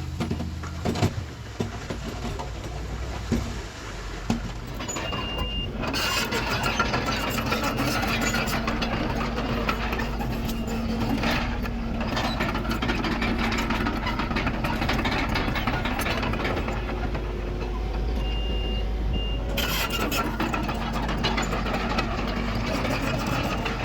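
Diesel earthmoving machinery, a bulldozer and dump truck, running steadily; the engine noise grows fuller about a quarter of the way in. A short high backup-alarm beep sounds twice, once before that and once near the end.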